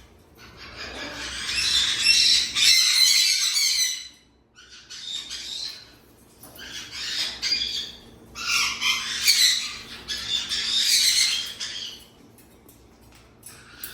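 Parrot squawking in several harsh bouts of one to three seconds each, with short pauses between them.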